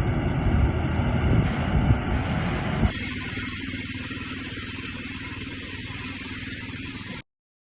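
Garden tractor engine running: loud and rough for the first three seconds, then an abrupt change to a quieter, steady engine hum. The sound cuts off to dead silence just before the end.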